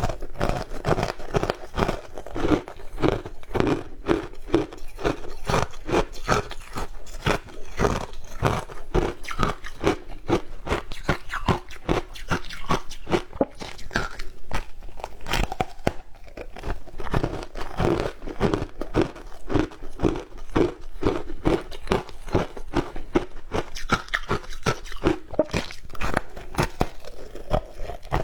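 Ice being bitten and chewed close to the microphone: a rapid, continuous run of crisp crunches.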